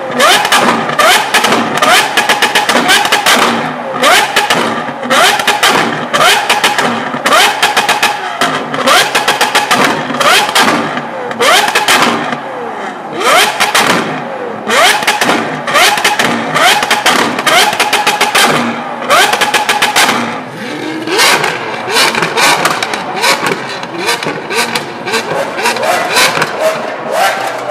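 Modified Lamborghini Aventador SVJ's V12 revved hard over and over, each rev sweeping up in pitch and dropping back, with rapid loud exhaust pops and crackles between revs.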